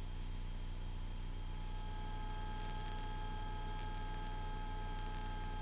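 Steady low drone of a Cessna 172S Skyhawk's engine in cruise, heard through the cockpit intercom/headset audio feed, with thin steady electrical whine tones over it; a higher-pitched whine comes in about a second and a half in.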